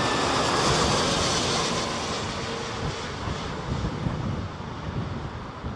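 Jet airliner passing the airport, its engine noise fading away steadily. Gusty wind rumbles on the microphone toward the end.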